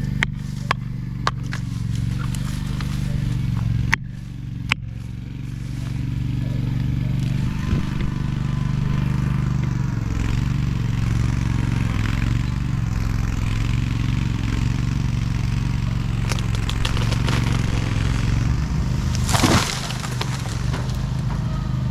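An engine running steadily, with a few sharp clicks in the first five seconds and a brief rush of noise near the end.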